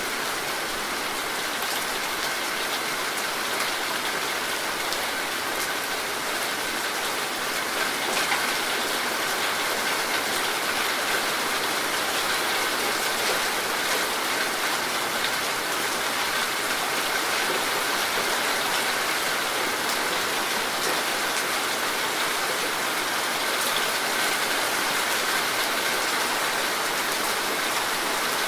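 Heavy rain falling steadily, a dense even hiss of drops with faint pattering ticks.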